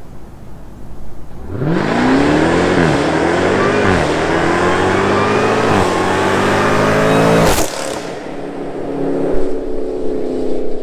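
Supercharged 6.2-litre Hemi V8 of a Jeep Grand Cherokee Trackhawk with a Corsa Extreme exhaust making a full-throttle pull. About a second and a half in, the engine note jumps up and climbs through three quick upshifts. Near the end it cuts off abruptly with a sharp crack, then falls back to a lower running note.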